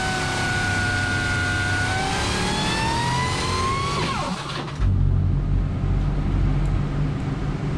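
Supercharged big-block V8 running on an engine dyno: it holds steady, revs up from about two seconds in, then drops off sharply around four seconds and settles into a deep, lumpy low rumble.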